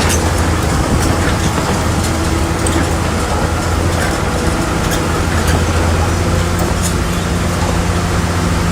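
Bulldozer's diesel engine running steadily with a low drone, with a few scattered short clanks.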